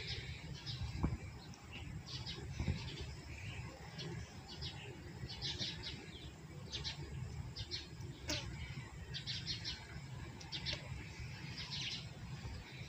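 Small birds chirping over and over, in short clusters of high chirps spread across the whole stretch, over a low outdoor rumble. A single sharp click comes about eight seconds in.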